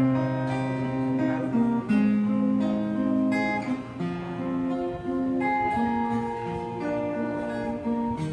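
Acoustic guitar strumming chords in an instrumental break of a folk song, with no singing.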